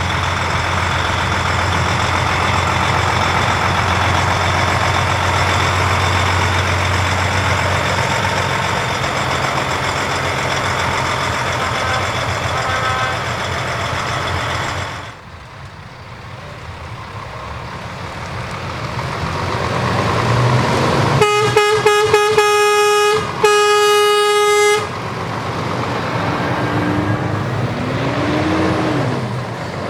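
Heavy trucks driving past with engines running, then a truck's air horn sounding about two-thirds of the way through: a few quick blasts, then one longer blast.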